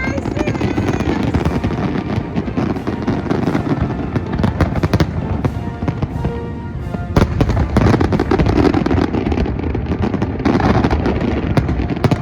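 Fireworks show, with dense rapid bursts and crackling throughout and music playing underneath.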